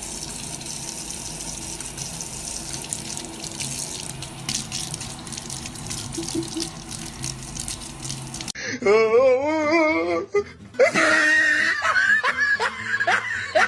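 Water running from a tap with faint music beneath. About eight seconds in it gives way to an animal's loud calls, first one wavering call, then a run of short rising calls.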